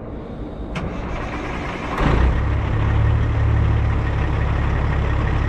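Semi truck's diesel engine running with a steady low hum, stepping up in level about two seconds in and then holding steady.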